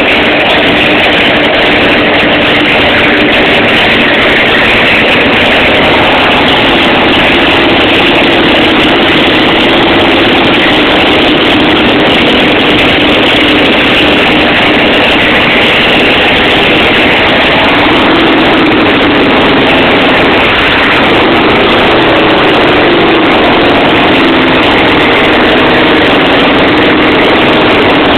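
Harley-Davidson V-twin engine on a rigid chopper, running loud and steady through its exhaust on its first start of the year. Its pitch wavers slightly past the middle.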